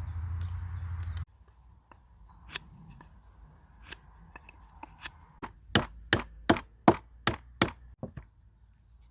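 A steady rushing noise that cuts off about a second in, then scattered light taps and a quick run of six sharp strikes on wood, about three a second, followed by two lighter ones: a tool striking wood while working a chair frame.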